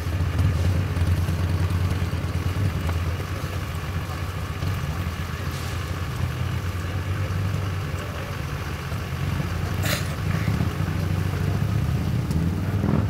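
Engines of vehicles leaving the show, running with a steady low rumble at low speed, with a brief sharp sound about ten seconds in.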